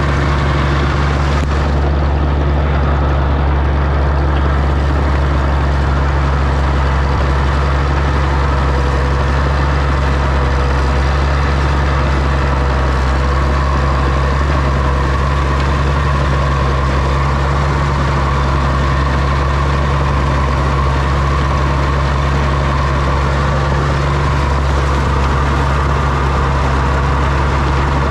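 Oliver OC-6 crawler tractor's engine running steadily, a low, even drone.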